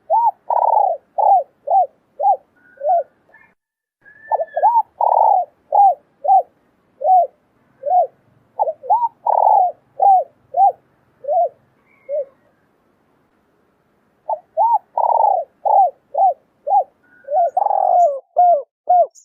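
Female spotted dove cooing: runs of short coos that rise and fall, about two a second, in three bouts separated by brief pauses.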